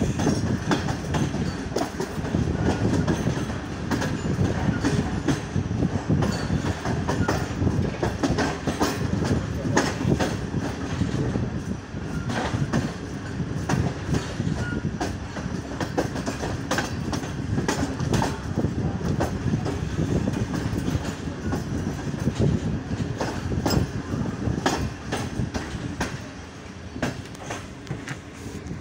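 Train running at speed, heard from aboard a passenger coach: a steady rolling rumble of wheels on rail, with a rapid clatter of clicks as the wheels pass over rail joints and points. It grows a little quieter near the end.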